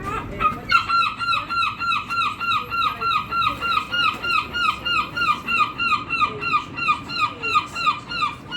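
A gull calling a long, rapid series of repeated squealing notes, about three a second, each dropping slightly in pitch. The series starts just under a second in and breaks off near the end.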